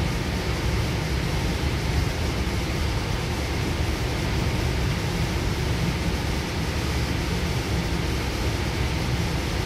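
Goninan K-set double-deck electric train running, heard inside the carriage: a steady low rumble of wheels on rail with an even rushing noise over it.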